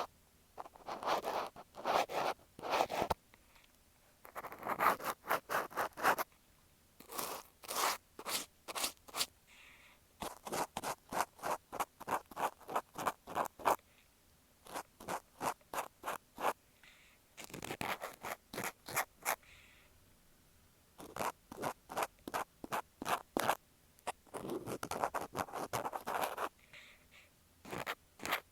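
Cotton swab scratching and rubbing against an earphone microphone in close ear-cleaning ASMR, in quick strokes about four or five a second, in runs of a few seconds with short pauses, and now and then a slower, fuller rub.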